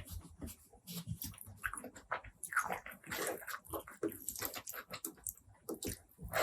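Close-miked mouth sounds of a person eating: chewing and lip-smacking with many short, irregular wet clicks.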